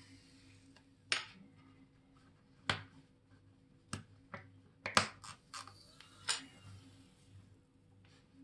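A series of sharp, small clicks and taps, about nine, spaced unevenly over several seconds, with two or three close together in the middle: metal hand tools handling small watch parts at the bench.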